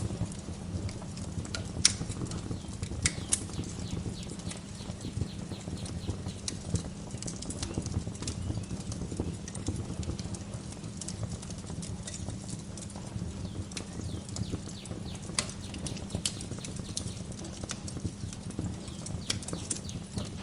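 Wood fire crackling in a fireplace: a steady low rumble with irregular sharp pops and snaps, the loudest crack about two seconds in.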